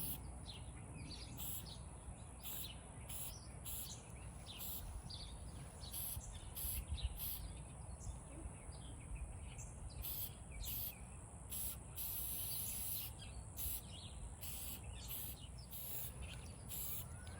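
Aerosol spray paint can hissing in many short bursts, with one longer spray of about a second a little past the middle, as a wooden derby car is painted. A steady high whine and a low background rumble run underneath.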